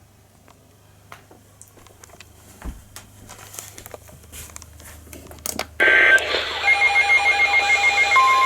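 Weather radio alert starting. After several seconds of faint clicks, the radio's audio cuts in abruptly about six seconds in, with static and high data-burst tones. A rapid beeping of about five beeps a second follows, and a steady alert tone begins near the end.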